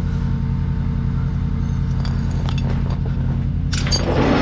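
Tow truck engine running steadily at high idle with the PTO engaged, with a few light metallic clinks from about halfway through and a short rush of noise near the end.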